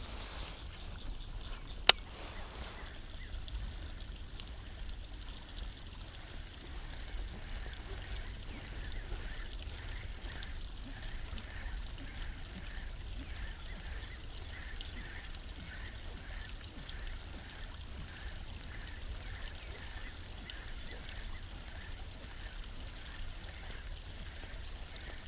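Steady wind rumble on the microphone with a sharp click about two seconds in, and faint short calls repeating rapidly through most of it.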